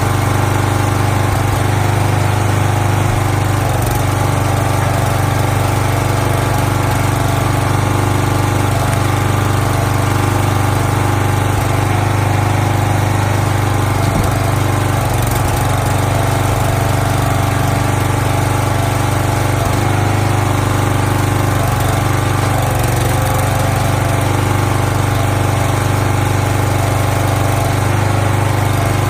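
Small gasoline engine of a log splitter running steadily at a constant speed, with a strong low hum.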